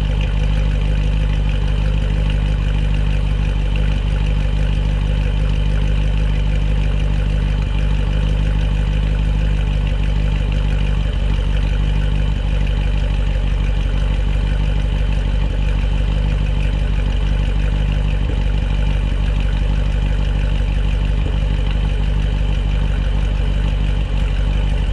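Supercharged C7 Corvette Z51's 6.2-litre LT1 V8 idling steadily during warm-up after a cold start, heard through the stock exhaust fitted with a Corsa X-pipe.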